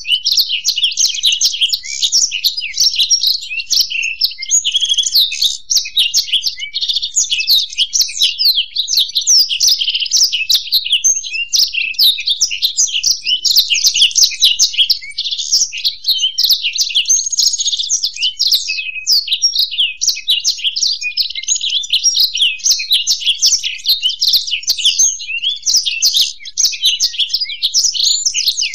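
A black-throated canary and a European goldfinch singing together in a continuous, rapid, high twittering song without pause.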